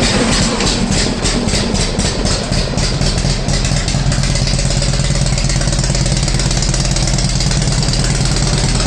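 Vintage Indian Chief's V-twin engine just fired up on its newly fitted electric starter. It runs with distinct regular pulses for the first few seconds, then settles into a steady idle.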